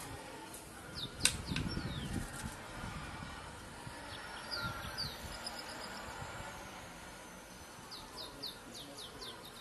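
Small birds chirping in quick runs of short, falling chirps, several times over a faint steady hiss. About a second in, a sharp click is followed by a brief low rumble.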